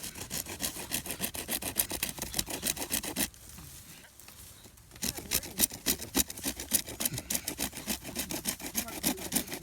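A saw cutting through wood in quick rasping strokes, in two runs with a short pause about three seconds in.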